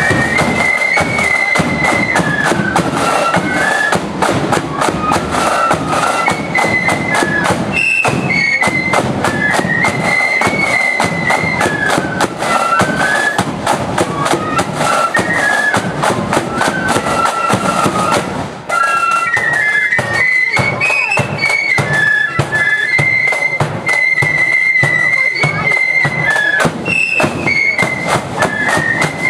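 Marching flute band playing a march tune, the flutes carrying the melody together over a steady drum beat.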